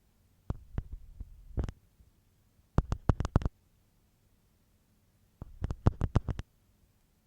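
Ear pick scraping inside an ear, close to the microphone, in three short bursts of quick scratchy strokes separated by pauses of near silence.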